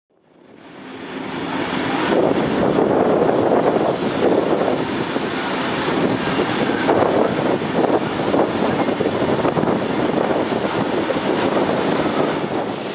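Sydney CityRail Tangara electric train passing at speed: a steady rushing noise of wheels on rails and the moving carriages. It fades in over the first two seconds.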